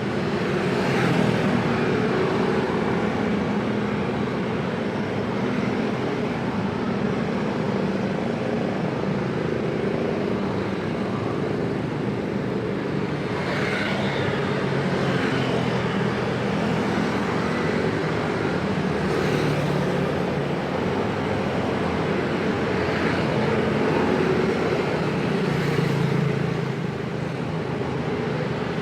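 Busy road traffic: many vehicle engines running together in a steady, dense drone of engines and exhausts.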